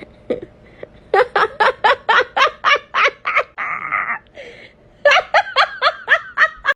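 A person laughing hard in quick repeated bursts, about four or five a second, in three runs broken by a breathy pause near the middle.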